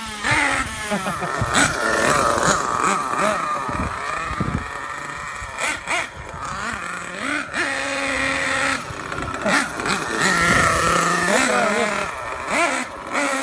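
Dynamite .28 two-stroke nitro engine of an RC truggy revving up and down repeatedly while driven at full throttle, running very rich on the high-speed needle.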